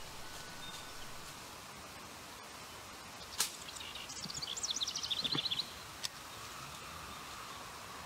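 A songbird singing a quick run of short high notes for about two seconds, midway through, with a sharp click just before it and another just after, over faint outdoor background noise.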